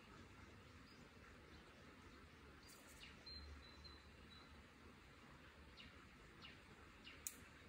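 Near silence with faint bird calls: short falling chirps, several times over. A sharp click near the end is the loudest sound.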